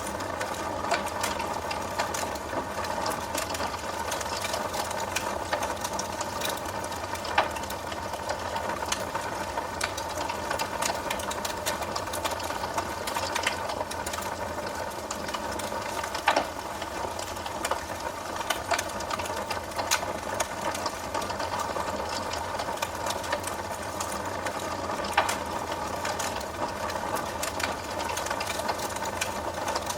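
Wood fire burning in a fireplace: a steady hiss with dense small crackles and a few louder pops, at about seven, sixteen and twenty-five seconds in.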